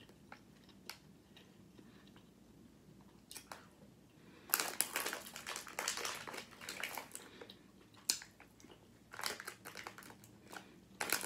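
A person chewing and eating. The noises come in clusters of short, sharp mouth sounds, separated by quieter stretches.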